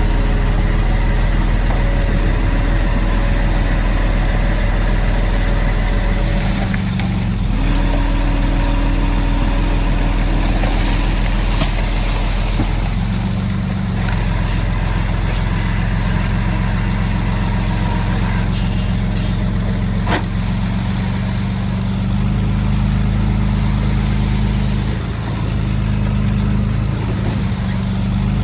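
Diesel engines of heavy earthmoving machinery running steadily under work, the engine note shifting a few times.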